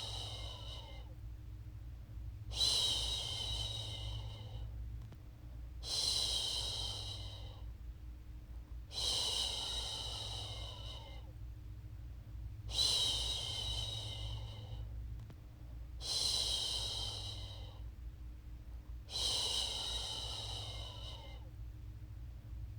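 A woman's voice shushing a baby to sleep: a long hissing "shhh" about every three seconds, each starting sharply and fading away, about seven times, over a faint steady low hum.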